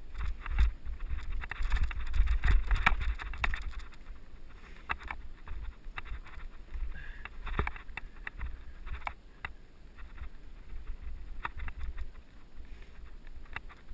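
Mountain bike riding over a dirt trail, heard from a helmet-mounted camera: wind buffets the microphone with a low rumble while the bike rattles and clicks over bumps, roughest in the first few seconds.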